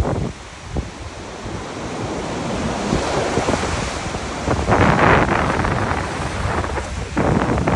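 Sea waves washing on the shore, with wind buffeting the microphone; the noise swells loudly about five seconds in and again near the end.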